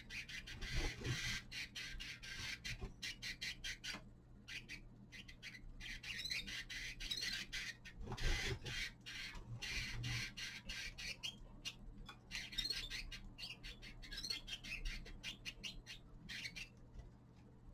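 Small caged finches giving rapid, scratchy chirps and chattering calls in several dense bursts.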